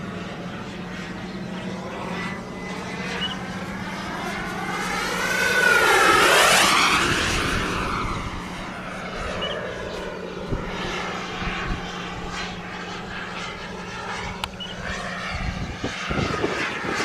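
Radio-controlled MB-339 model jet's K-102 turbine engine flying past. It is loudest about six seconds in, with the whine sweeping in pitch as it passes, then fades and goes on more quietly as the jet flies away.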